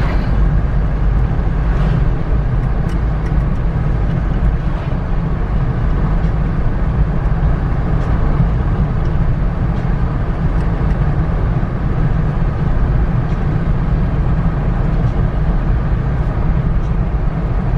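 Steady, loud low rumble of a car on the move, road and engine noise heard from inside the vehicle.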